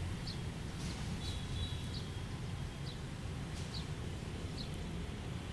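A small bird chirping, one short high chirp about once a second, over a steady low rumble of background noise.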